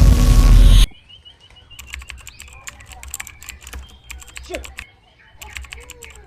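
Loud music cuts off just under a second in, followed by rapid, irregular sharp clicking mixed with faint short whistles and chirps, the unusual sound of a white-rumped shama (murai batu) in training.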